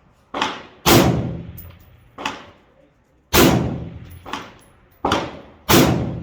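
Rifle shots from a 5.56 mm M4-style AR-15, seven sharp reports at an uneven pace. The three loudest come about two and a half seconds apart, with quieter shots between them.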